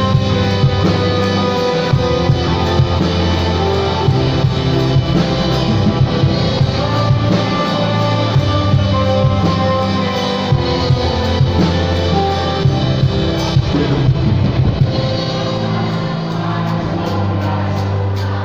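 Live band music from a church sound check: guitar, bass and drum kit playing a rock-style worship song, with held notes and a steady drum beat.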